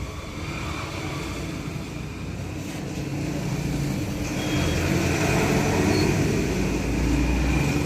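Road traffic with a vehicle engine running, slowly growing louder.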